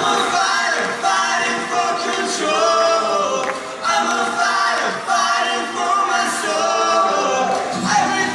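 Several voices singing during a live rock song, with the bass and low instruments dropped out so the singing stands almost alone.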